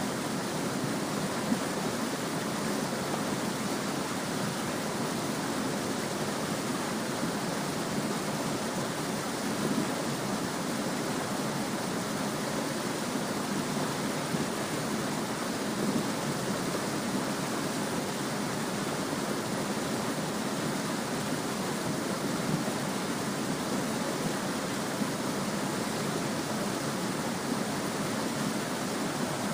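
Small stream babbling steadily over stones, an even rush of water with a few brief louder splashes.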